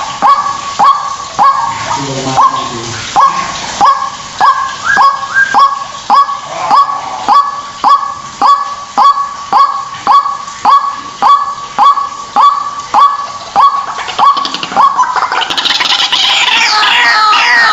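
White-breasted waterhen (ruak-ruak) calling: a loud honking note repeated steadily, nearly twice a second, for about fifteen seconds. Near the end it breaks into a louder, faster run of higher, sweeping calls.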